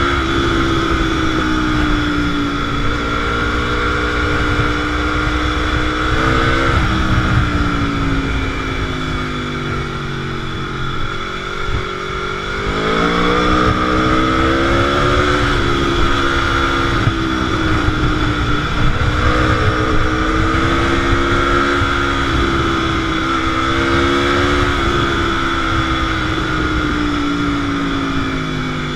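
Sport motorcycle engine under way, its pitch rising and falling with the throttle. It drops off for several seconds near the middle, then climbs again as the bike accelerates.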